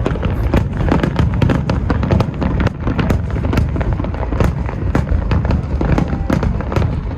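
Aerial fireworks display: a continuous barrage of booms with many sharp crackling reports, several a second, over a dense low rumble.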